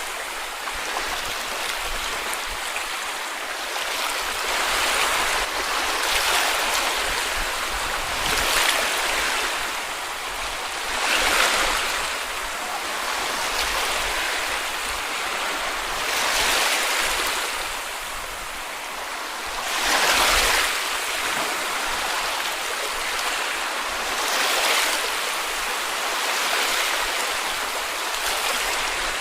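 Small sea waves breaking and washing on a beach, a steady hiss of surf that swells with each wave every few seconds.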